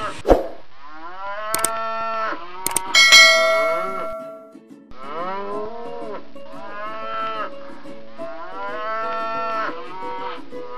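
Cattle mooing: a series of drawn-out moos, one after another, with a few sharp clicks in the first three seconds.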